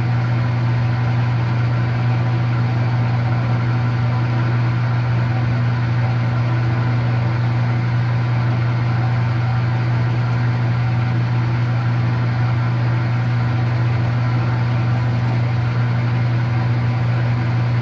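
Electric-motor-driven metal-cutting machine running steadily while it cuts through stock, with a strong, even low hum and no change in pitch.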